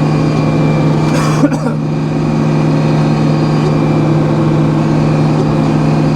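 A sawmill's engine running steadily, with a constant low hum. About a second and a half in there is a brief rushing noise.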